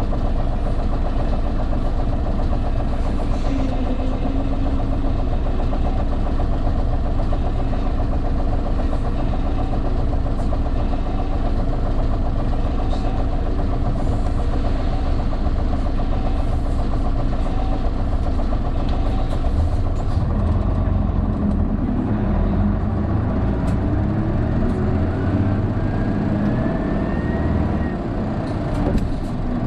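Interior sound of an Isuzu Erga (PJ-KV234L1) city bus's turbo-diesel engine pulling steadily uphill. About twenty seconds in the engine note changes, and near the end a thin whine rises in pitch: the uploader says this bus is known for an abnormal whine, like that of an Aisin automatic gearbox, from about 1300 rpm as the turbo comes in.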